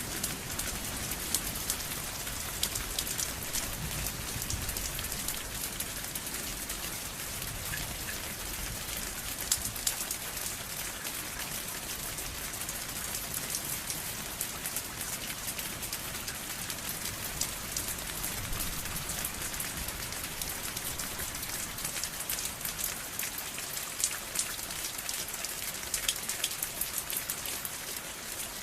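Steady rain falling on a surface, with individual drops ticking sharply over an even hiss.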